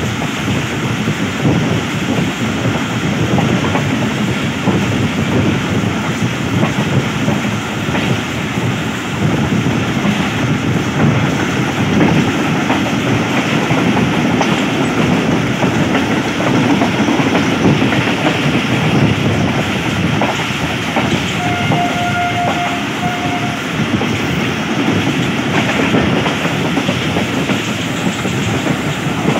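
A passenger train coach running along the track, heard from its open window or door: a steady, loud rumble and rattle of wheels on rail. A faint, brief high tone sounds about two-thirds of the way through.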